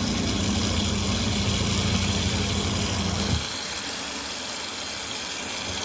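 Electric motor of a 230V twin-tub portable washing machine humming steadily for about three seconds, then cutting off abruptly.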